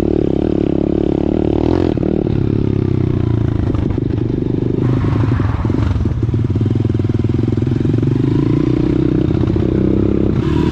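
Small single-cylinder pit bike engine running while being ridden, loud and steady. Its pitch drops briefly about two seconds in and again around the middle as the throttle eases, then it holds steady.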